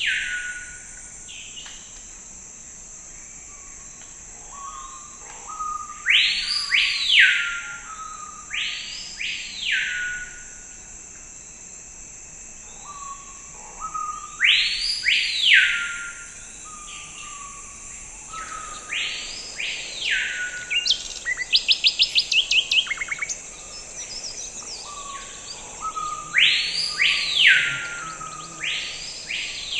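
Forest ambience: a bird repeats a loud pair of sweeping whistled calls every several seconds, rising and falling in pitch. A steady high-pitched drone runs underneath, and a rapid trill sounds about two-thirds through.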